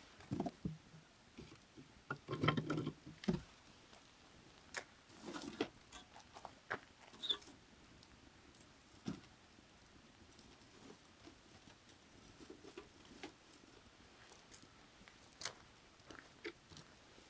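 Firewood burning, crackling with irregular sharp pops and snaps, a busier run of crackles about two to three seconds in. A faint steady hiss of creek water runs underneath.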